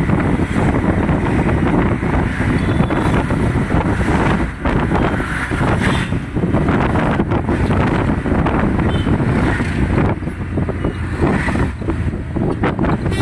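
Wind buffeting the microphone over the rumble of a moving vehicle, a loud, uneven rush with no clear rhythm.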